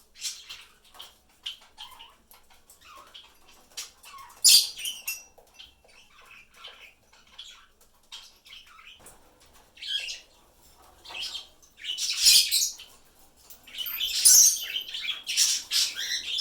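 Pet parrots and parakeets chirping on and off, with several louder harsh squawks about four seconds in, at twelve seconds and again at fourteen.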